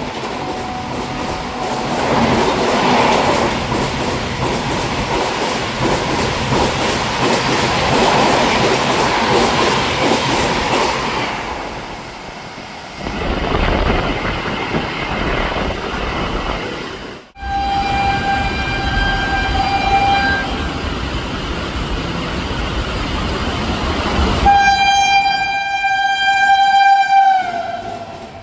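A train runs past at speed with a loud rushing and rumble of wheels on rail. After a cut, an electric locomotive's horn sounds twice: a steady blast of about three seconds, then a longer one that sags in pitch as it dies away.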